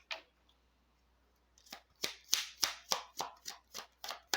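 Oracle cards being handled and shuffled: a quick run of sharp slaps and taps, about four a second, starting about a second and a half in.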